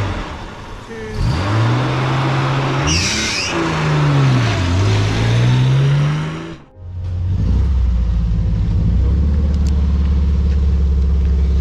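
Classic rally car engine revving as the car pulls away, its pitch rising, dropping at a gear change and rising again. After an abrupt break about seven seconds in, a steady low engine idle.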